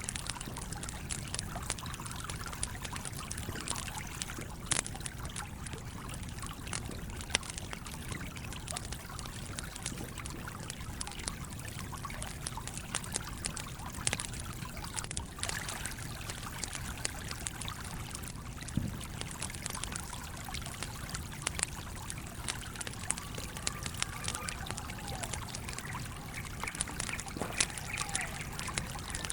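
Campfire crackling, with scattered sharp pops and snaps, over the steady running of a small stream.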